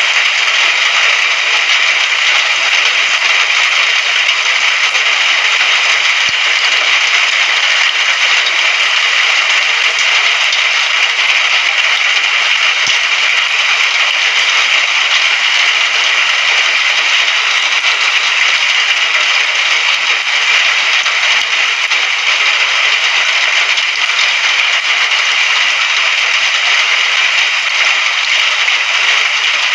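Steady rain falling, an even, dense hiss that stays level throughout.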